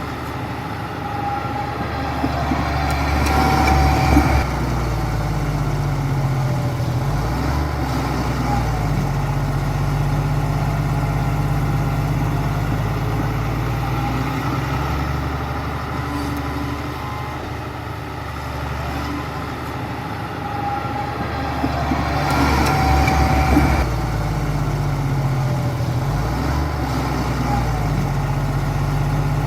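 Bulldozer's heavy diesel engine running steadily, with its note shifting as it works. It grows louder and noisier twice, about three seconds in and again around twenty-two seconds.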